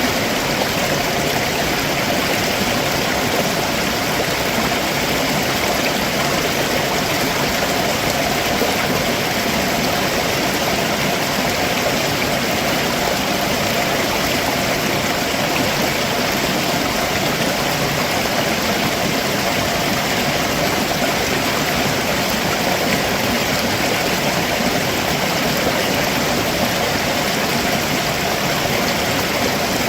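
A rocky mountain stream below a waterfall, water rushing and splashing over the rocks in a steady, even rush.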